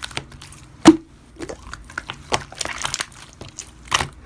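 Slime being pressed and squeezed by hand, giving irregular sharp clicks, pops and crackles, with one loud snap about a second in and another near the end.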